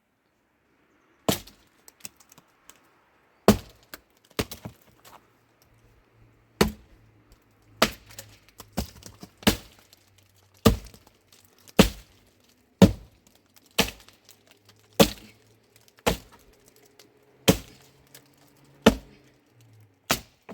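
Repeated sharp strikes of a tool on wood, about one a second, each with a short crack and ring.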